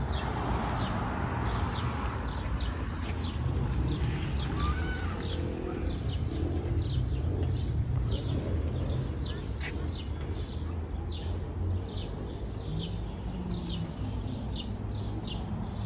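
A small bird chirping over and over, short high chirps at a fairly even pace of a little more than one a second, over a steady low rumble.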